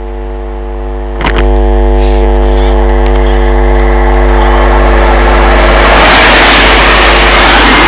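A Class 365 electric multiple unit passing close at speed: a rushing noise of wheels and air that builds to its loudest as the carriages go by, about six seconds in. A sharp knock about a second in, over a steady hum throughout.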